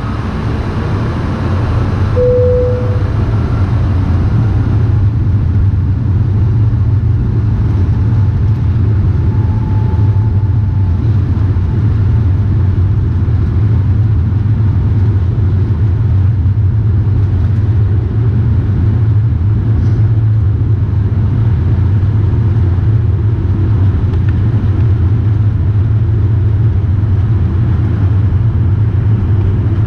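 Airbus A220's Pratt & Whitney PW1500G geared turbofan engines at takeoff thrust: a loud, steady jet roar with a deep rumble, swelling over the first couple of seconds and then holding level.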